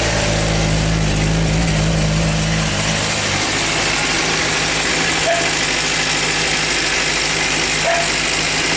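Suzuki GSR600 inline-four engine idling steadily with a ticking noise, which the owner suspects is the cam chain tensioner or valve clearances needing a shim adjustment, or just normal Suzuki noise.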